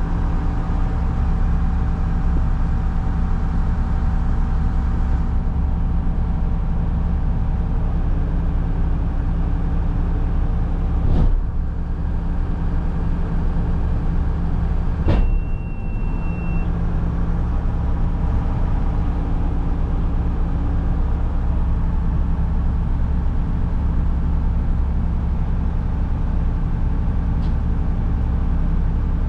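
Front-load garbage truck engine running steadily, with two sharp knocks about 11 and 15 seconds in, the second followed by a short high beep.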